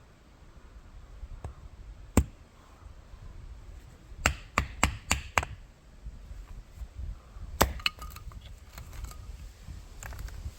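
A series of sharp knocks and clinks: one about two seconds in, a quick run of five around the middle, and a few more near eight seconds.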